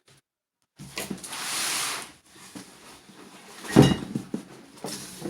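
Packaging being handled: a brief swishing rustle, light clicks, and one heavy thump about four seconds in, as of an item or box set down.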